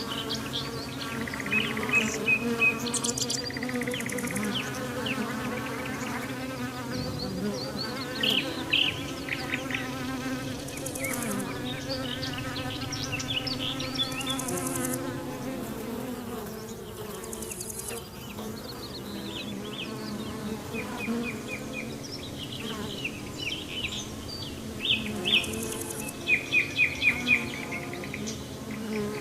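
Flying insects buzzing close by, a steady wavering hum, with birds chirping and trilling over it. A quick series of loud chirps comes near the end.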